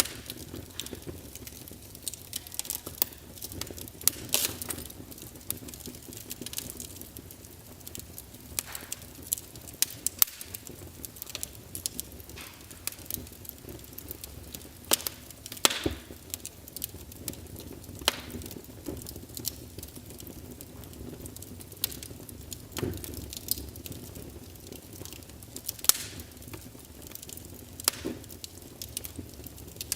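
Wood fire crackling in a fireplace: a low steady rush of flame under frequent irregular pops and snaps, a few of them sharp and loud.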